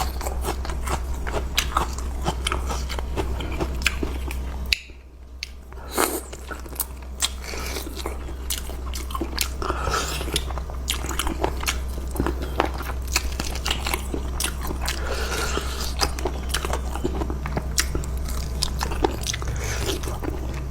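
Close-miked eating: chewing and crunching a mouthful of coconut curry noodles with raw bean sprouts, with many sharp, crisp crunches. The sound drops briefly about five seconds in.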